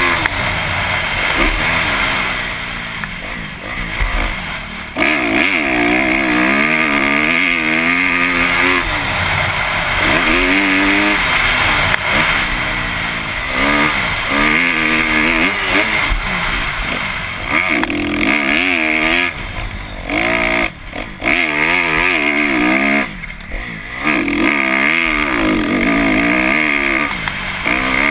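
Kawasaki KX250F's 250cc four-stroke single-cylinder engine revving up and down over and over as the motocross bike is ridden hard. There are a few short drops where the throttle is shut off, about two thirds of the way through.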